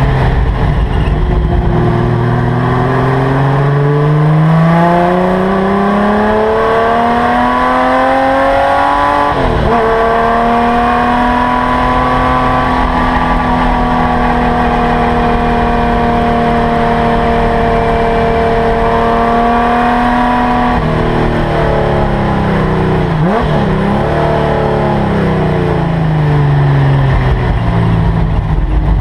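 Holden LC Torana GTR XU1 race car's straight-six engine, heard from inside the cabin, working hard at racing speed. The engine pitch climbs steadily for several seconds, then holds high and nearly steady for about ten seconds. After that it falls with a few quick dips and rises, and climbs again near the end.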